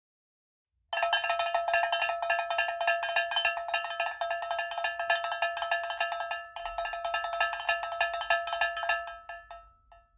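A metal utensil striking a ringing metal vessel in quick, repeated strokes, several a second, with a short break partway through before it fades out near the end.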